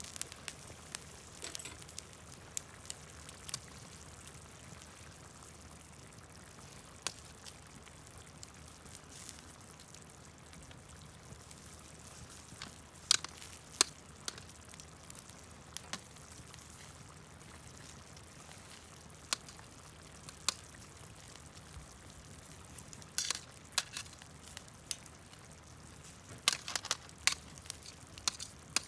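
Camp cooking over a wood fire: a quiet steady hiss with scattered sharp clicks and crackles, which come in small clusters about halfway through and again near the end.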